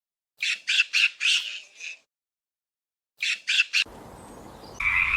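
A bird squawking in a quick run of short, sharp calls, then after a pause three more. Near the end a steady chorus of croaking frogs starts.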